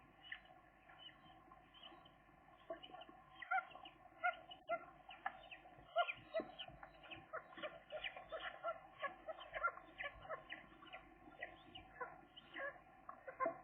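Gull chicks peeping: a fast, uneven run of short, thin calls, busier from about three seconds in.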